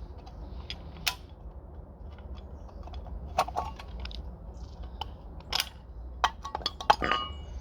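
A bird feeder being handled: scattered light clicks, knocks and clinks, with a brief metallic ring near the end, over a low steady rumble.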